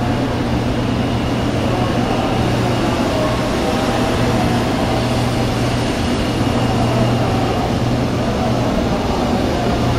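0 Series Shinkansen train pulling out of the station: a steady running noise with a constant low hum underneath.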